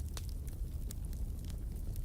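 Wood fire burning, with a steady low rumble of the flames and scattered sharp crackles and pops from the burning wood, a few a second.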